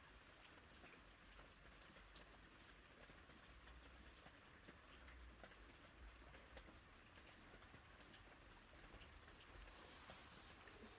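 Faint, steady rain, with scattered drops ticking.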